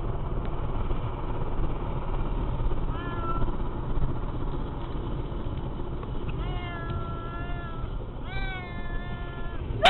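Steady low road rumble of a moving car, with drawn-out wavering high cries: a short one about three seconds in and two longer ones in the last third.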